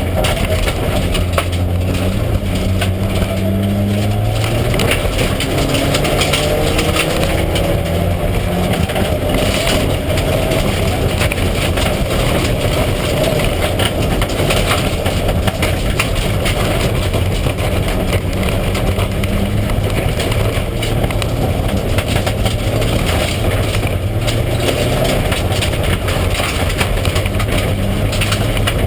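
Mitsubishi Lancer Evo IX rally car's turbocharged four-cylinder engine at full stage pace, heard from inside the car, its pitch climbing and dropping through gear changes in the first several seconds and then running steadier, over a constant rumble of tyres and stones on a gravel road.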